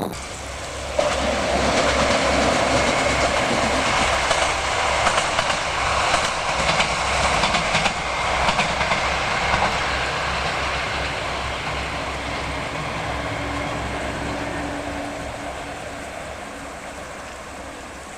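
Kyoto Tango Railway diesel train passing close by, its wheels clattering over the rail joints with a rhythmic low thumping under a steady rumble. It starts suddenly and fades gradually over the second half as the train moves away.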